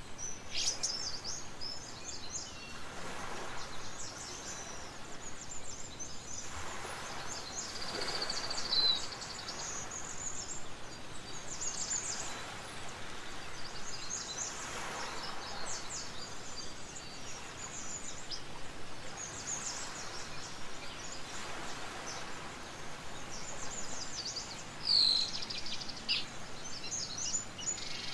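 Birds chirping and trilling on and off over a steady outdoor background hiss, with two louder short whistled calls, one about nine seconds in and one near the end.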